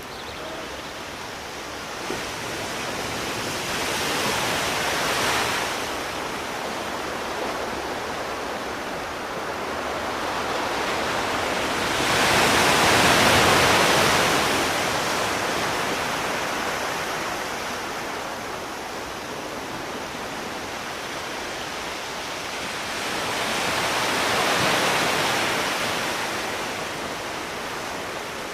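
Sea waves breaking on a shore: a steady hiss of surf that swells and falls back three times, about ten seconds apart, the middle wave the loudest.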